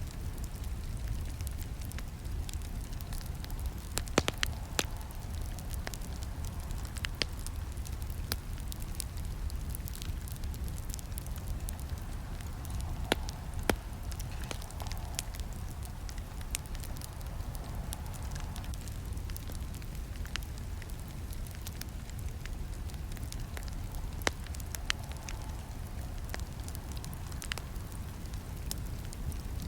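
Campfire burning, crackling steadily over a low rumble of flames, with frequent sharp pops; the loudest pops come about four, thirteen and twenty-four seconds in.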